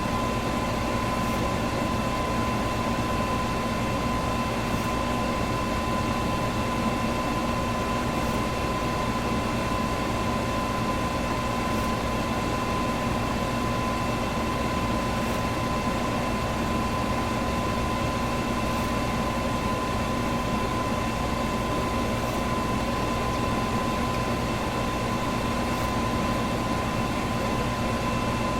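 Electric fan running steadily, a constant rushing hum with a faint whine in it and a very faint tick about every three and a half seconds.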